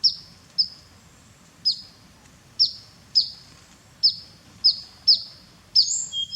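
A small bird giving short, sharp, high chirps, each dropping quickly in pitch, about ten of them at uneven intervals. Near the end they run into a quicker, busier string of notes.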